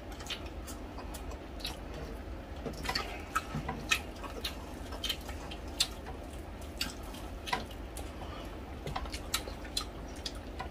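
Close-miked eating sounds: wet chewing and lip smacks, an irregular scatter of short clicks, over a low steady hum.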